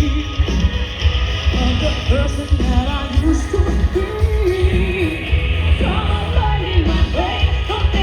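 Live rock band playing a song, with a singer's voice over a strong, pulsing bass and drums.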